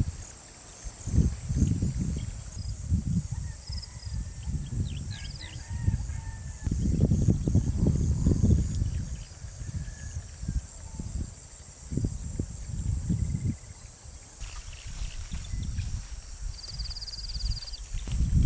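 Wind gusting on the microphone in uneven low rumbles, the strongest gust about halfway through, with faint bird chirps and a short trill above it.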